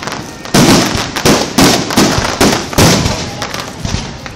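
Aerial firework shells bursting in quick succession: about eight loud bangs, two or three a second, each trailing off before the next.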